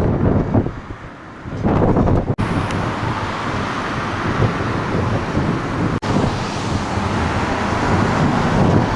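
Wind buffeting the microphone over road traffic noise; from about two seconds in, a steadier, fuller rush of passing vehicles.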